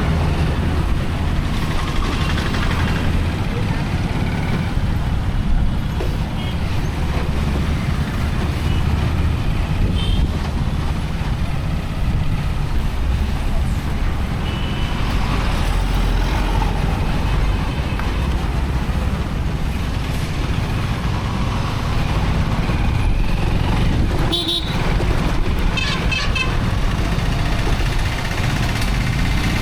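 Motorcycle ride through town traffic: a steady low rumble of engine and wind on the microphone, with a vehicle horn honking a few seconds before the end.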